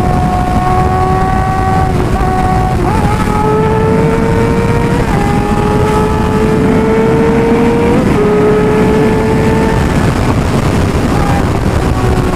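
Suzuki GSX-R600's inline-four engine running at speed, its pitch climbing slowly with a few short steps at gear changes. Heavy wind rumble on the microphone underneath.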